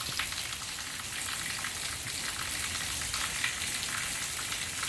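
Steady patter of light rain, an even crackling hiss of fine drops.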